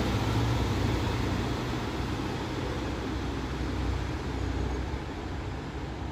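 Diesel engines of a departing pair of coupled class 156 diesel multiple units rumbling as the train pulls away, the sound slowly fading.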